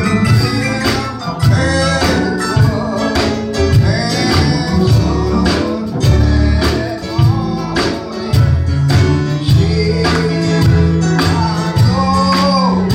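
Live gospel band music with a steady drum beat and a walking bass line, and some singing over it.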